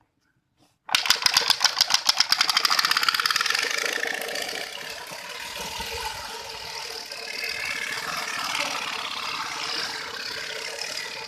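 A bicycle rigged to sound like a motorcycle, with something flapping against the turning wheel's spokes: a rapid clatter of clicks that starts suddenly about a second in and runs together into a motor-like buzz, loudest at first and then steadier and a little quieter.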